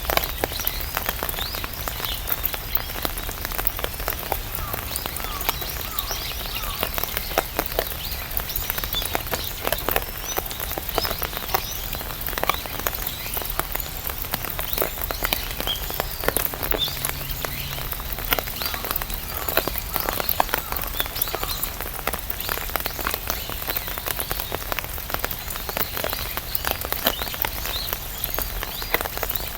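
Rain falling on an umbrella: a steady, dense run of irregular drops tapping on the canopy.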